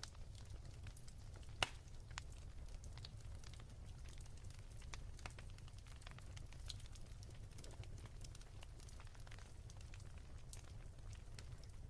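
Wood fire crackling, with scattered small pops over a low steady rumble and one sharper, louder pop about a second and a half in.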